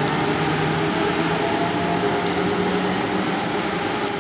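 MARC HHP-8 electric locomotive hauling bilevel passenger coaches along the track: a steady rumble of wheels and running gear with a low hum underneath.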